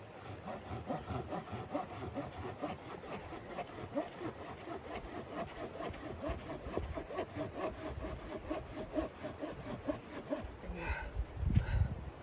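Hand saw cutting wood in fast, even rasping strokes, about three to four a second, stopping about ten and a half seconds in; a heavy thump follows near the end.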